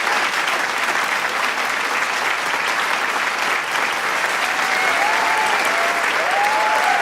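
Large crowd applauding steadily with dense clapping, with a few shouts and whoops rising over it in the last couple of seconds.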